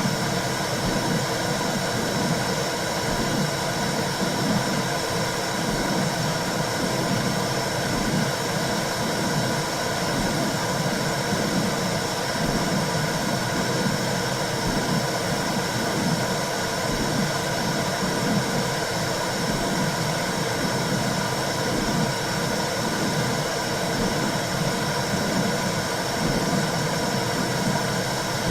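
Womb sound for soothing a baby: a steady rushing white noise with a rhythmic low pulsing whoosh running through it.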